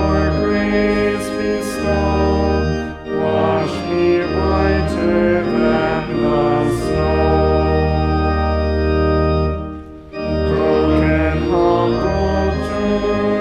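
Church organ playing sustained chords for a sung psalm, with voices singing along. The chords break briefly about three seconds in and again about ten seconds in.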